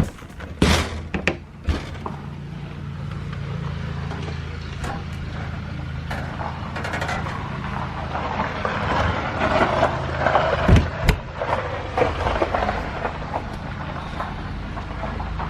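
An engine running with a steady low hum. There are a few sharp knocks near the start and two more about eleven seconds in.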